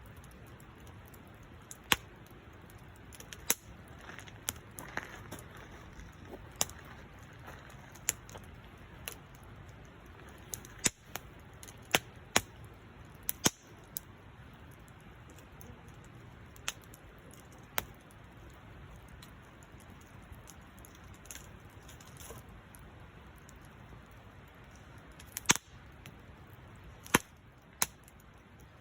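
Wood fire burning with a low steady hiss and sharp, irregular snaps and pops from the burning wood, one every second or two.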